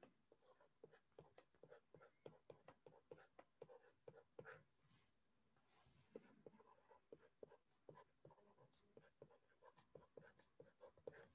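Faint sounds of writing: short, irregular scratches and taps, with a pause of about a second roughly five seconds in.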